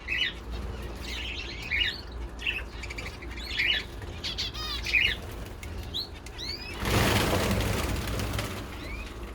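Small aviary birds chirping in short calls, then a burst of wings flapping for about two seconds, starting about seven seconds in, the loudest sound.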